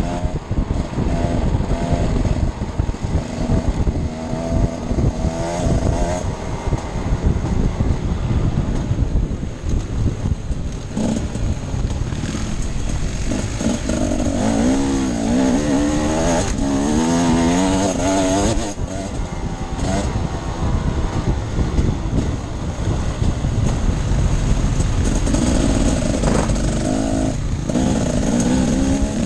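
Off-road dirt bike engine running hard while being ridden, its pitch rising and falling repeatedly as the throttle is opened and closed.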